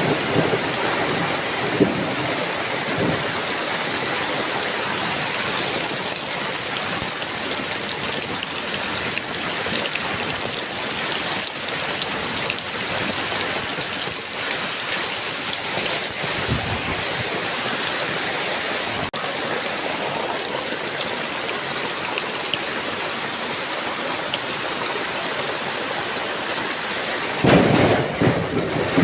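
Heavy rain falling steadily with a dense hiss. Low thunder rumbles roll in near the start, again around the middle, and more strongly near the end.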